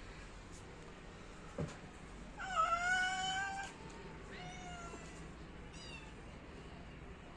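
Domestic cat meowing: one long meow, then two shorter, fainter ones, with a brief tap just before the first.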